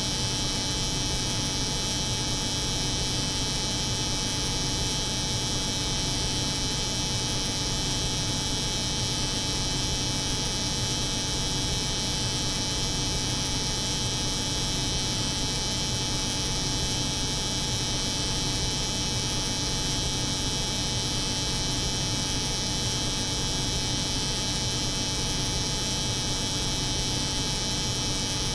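Steady layered drone: a cold room's refrigeration hum mixed with an electric hair clipper's buzz, unchanging in level and pitch.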